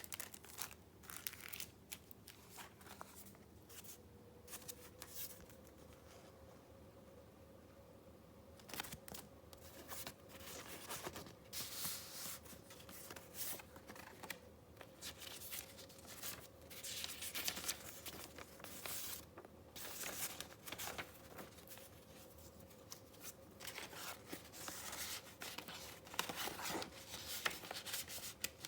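Paper being handled in irregular bursts of rustling, crinkling and tearing, with a quieter pause partway through. A faint steady hum runs underneath.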